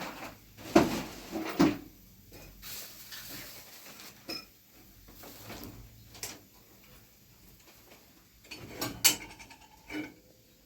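Scattered knocks and clatter of plumbing work: sharp knocks about a second in and again near the end, with quieter handling noises between.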